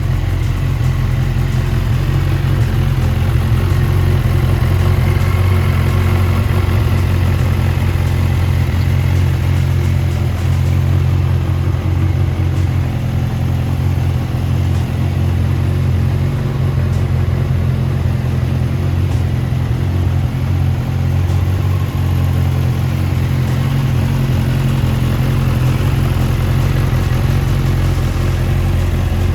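Honda CB1000R's inline-four engine idling steadily through an aftermarket Lxil Hyperlow exhaust.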